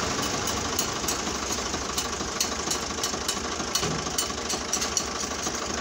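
Ford 3600 tractor engine running steadily, with a fast, even knocking clatter over a low hum.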